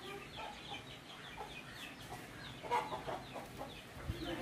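Birds calling: a string of short chirps and clucking notes, a little louder about two-thirds of the way through.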